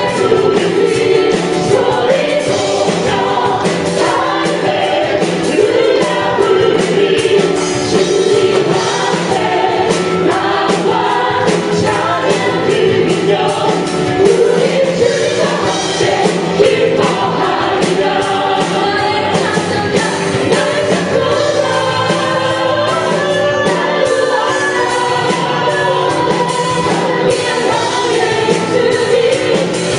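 Live contemporary worship music: a praise band playing while the singers and congregation sing together.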